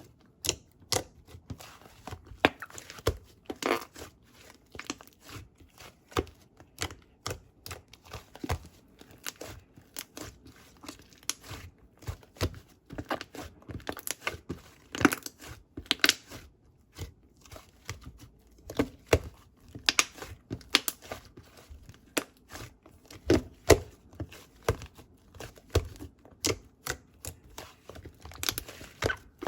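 Paper or plastic being handled close up: an irregular string of short crinkles, rips and light taps.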